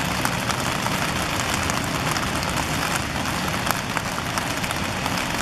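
Heavy rain pouring, a steady hiss of rain with many sharp drop-ticks, heard from inside a parked car as the drops hit the car's body and glass.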